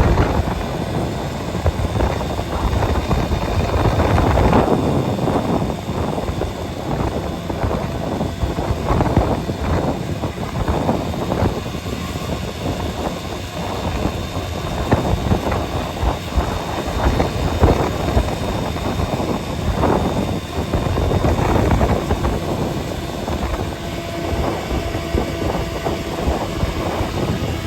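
A vehicle driving along a road, a continuous low rumble of engine and road noise broken by frequent uneven thumps and knocks.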